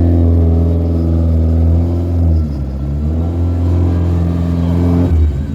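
Rally car engine running at fairly steady revs, dipping briefly about halfway through and picking back up, with a change in its note just before the end.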